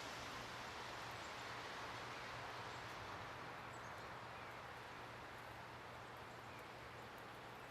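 Faint outdoor ambience: a steady hiss that slowly fades, over a low steady hum, with a few tiny faint high ticks.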